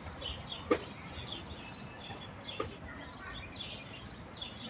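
Small birds chirping repeatedly in the background, short high calls scattered throughout. Two sharp clicks cut in, one about a second in and another about two seconds later.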